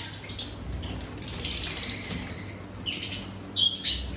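Small pet birds chirping and twittering rapidly in a high-pitched chorus, with louder bursts of chirps about three and four seconds in.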